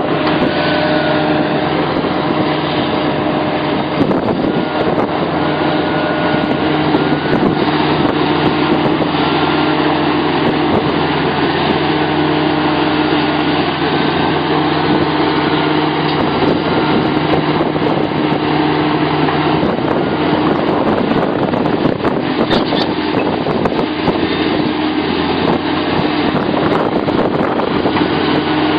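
Sumitomo SH700LHD-5 excavator's diesel engine running steadily, with a higher whine that gently rises and falls.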